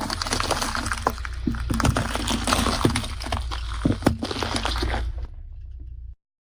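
Something brittle crackling and snapping as a car tyre rolls over and crushes it, over the car's low steady rumble. The crackling thins out about five seconds in, and the sound cuts off to silence near the end.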